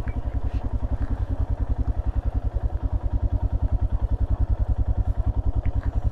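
Royal Enfield Himalayan's 411 cc single-cylinder engine running at low revs, an even thumping beat of about eight or nine pulses a second that grows slightly louder towards the end.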